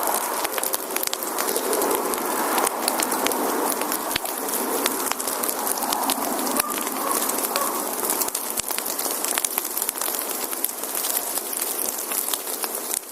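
Wood campfire burning: a steady hiss packed with many small, sharp crackles and pops from the burning logs.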